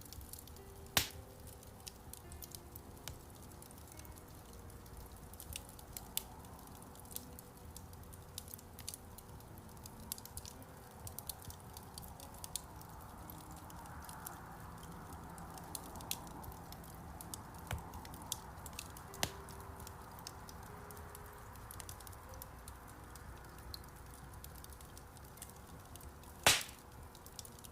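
Wood fire crackling in a fireplace: a steady scatter of small ticks and snaps, with two loud sharp pops, one about a second in and one near the end.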